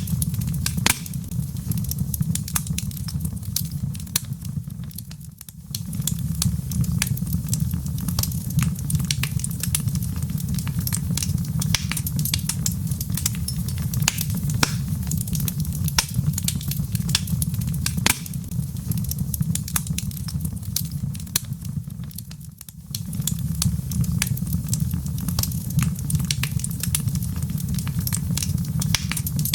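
Wood fire burning in a fireplace: a constant scatter of sharp crackles and pops from the logs over a steady low rumble, which fades out briefly twice.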